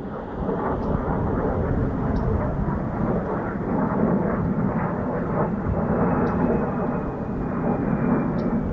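Military aircraft passing, its engines a steady, loud rumble with a faint high whine that sinks slowly in pitch.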